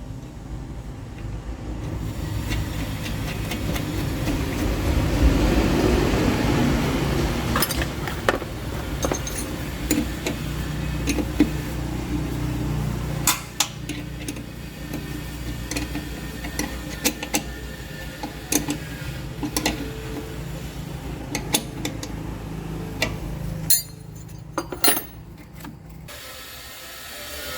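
Scattered sharp metal clinks and knocks of hand-tool work over a steady low hum; the hum falls away near the end.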